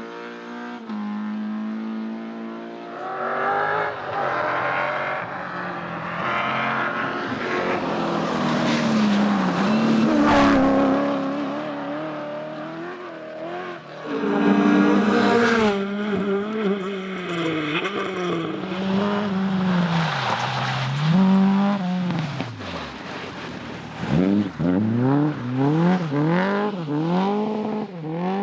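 Rally cars at racing speed, engines revving hard and dropping back again and again through gear changes and throttle lifts. One car goes past with a falling pitch about ten seconds in, another arrives loud a few seconds later, and there is a run of quick revs near the end.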